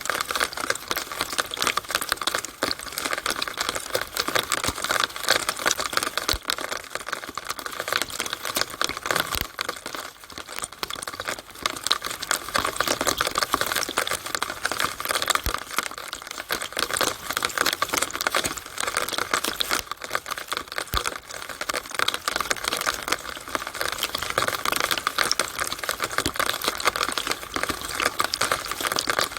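Rainwater running and splashing from a downspout on a rainy day: a steady, dense crackle of many small drops and splashes.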